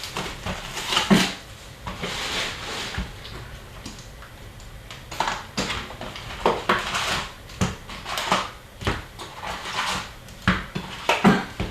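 Rustling, crinkling and light knocks of a sealed box of hockey card packs being unwrapped and opened, in short irregular bursts.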